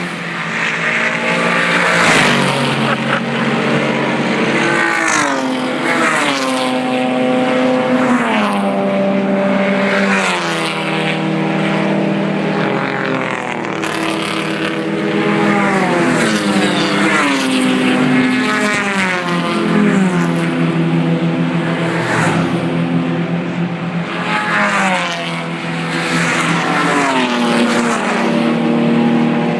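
Racing car engines at full throttle, one car after another. Their pitch climbs and then drops again and again as they shift up through the gears.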